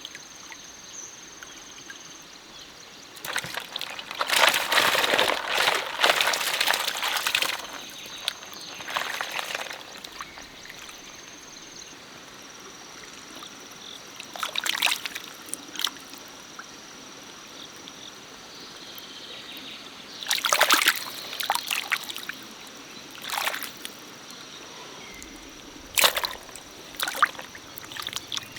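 Shallow stream water sloshing and splashing in irregular bursts over a steady trickle, with a faint steady high-pitched tone running underneath.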